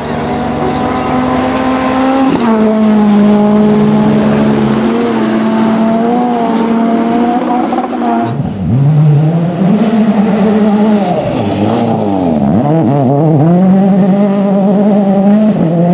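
Rally car engine at high revs, holding a fairly steady note for about eight seconds. It then drops suddenly and swings quickly up and down in pitch as the throttle is lifted and reapplied through gear changes.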